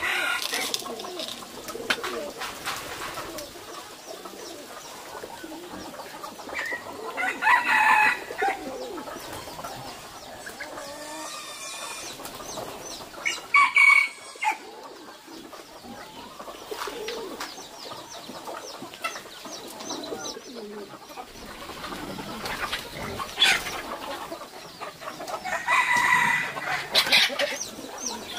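Chickens clucking, with several louder calls standing out about a quarter, half and near the end of the way through, over quick high chirps from small birds.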